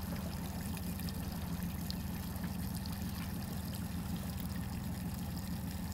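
Small boat's motor running steadily at low speed, a constant low hum, with water trickling and splashing along the hull.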